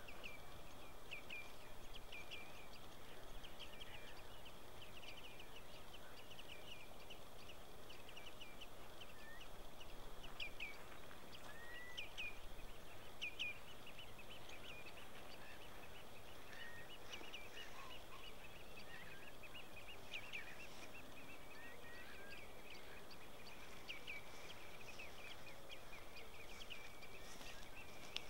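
Birds calling: a continuous stream of short, high chirps, with a few lower rising whistles in the middle, over a faint steady hiss.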